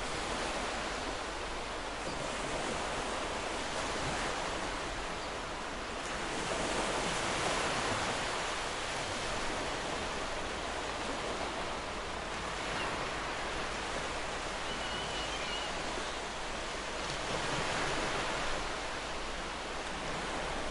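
Ocean surf washing on a beach: a steady rush of waves that swells louder twice, about a third of the way in and again near the end.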